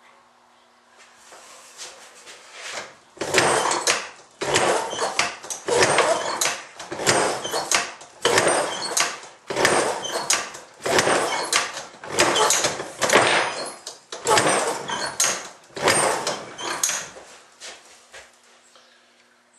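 An antique Iron Horse small engine being kicked over by its kickstart about a dozen times in a row, roughly once a second, on choke; it does not catch.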